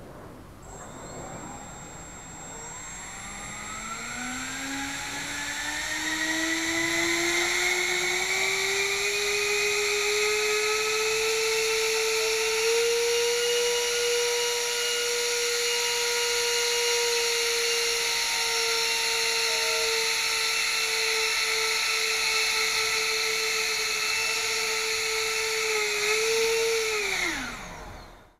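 Electric ducted fans spooling up with a whine that rises in pitch over several seconds, then running steadily at high throttle, then winding down and cutting off near the end.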